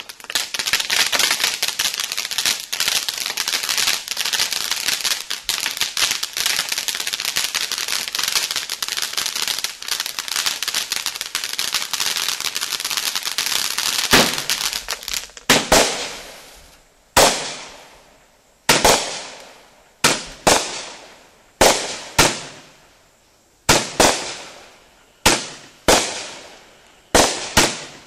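Consumer fireworks fountain cake. It opens with about fifteen seconds of dense, steady crackling hiss from its titanium-flower fountain, then fires single shots about every second and a half, each a sharp bang with a tail that fades out.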